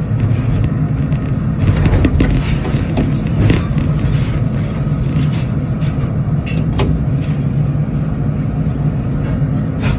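Excavator's diesel engine running steadily, with scattered knocks and clatters of the machine working through demolition debris.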